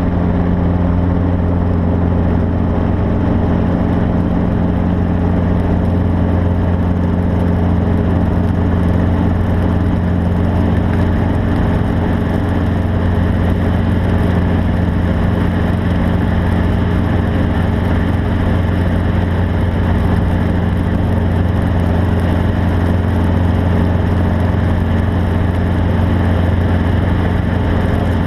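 An engine running steadily, a loud, even low drone with no change in pitch.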